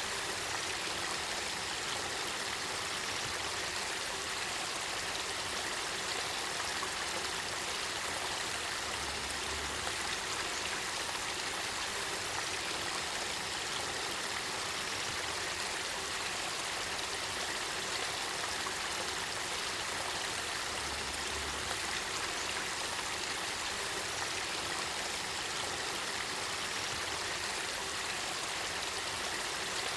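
Spring water flowing and bubbling in a clear spring-fed river, a steady, even rush of water.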